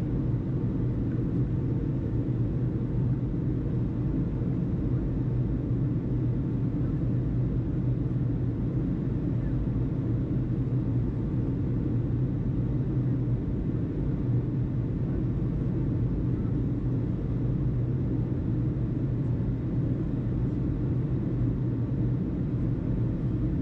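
Steady low rumble of aircraft engine noise, even and unchanging, with a hum near the bottom.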